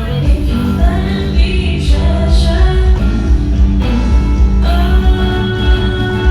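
Live band music with singing and guitar over a heavy, pounding bass beat, heard from backstage at a stage show.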